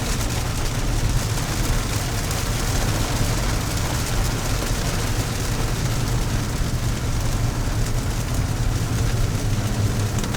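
Steady low rumble of a car heard from inside the cabin, with the engine running.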